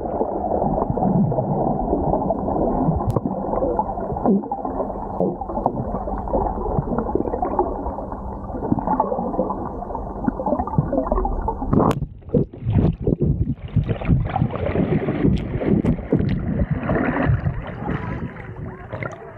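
Muffled, gurgling sea water as heard underwater, the sound dull and cut off above the low-mid range. About twelve seconds in it opens out into brighter splashing and rushing noise, as at the surface.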